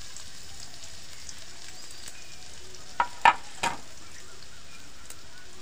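Onions and freshly added garlic and ginger-cumin paste frying in oil in a steel karahi, a steady sizzle. About three seconds in come three sharp knocks close together, a utensil striking the pan.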